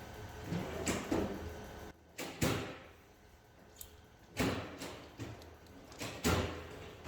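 A series of sharp knocks and clatters, like hard objects being set down or handled, over a low hum that stops about two seconds in.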